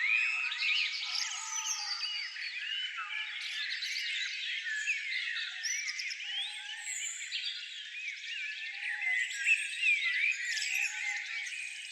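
Many small wild birds chirping and twittering at once: a dense, continuous chorus of short overlapping high calls.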